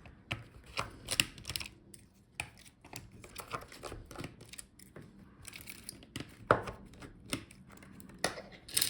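Small tools at work on a laptop's plastic palmrest: scattered clicks and scrapes as the touchpad screws are taken out, with a sharper click about six and a half seconds in and a cluster of clicks near the end.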